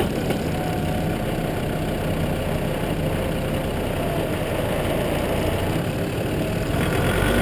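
Off-road 4x4's engine idling steadily, then getting louder about seven seconds in as it picks up revs.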